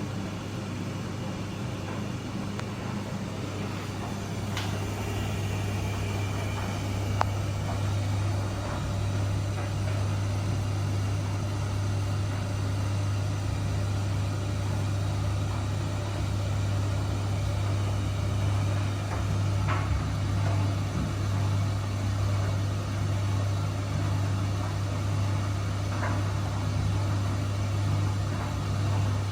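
Miele W1 washing machine running, a steady low hum with a few faint clicks.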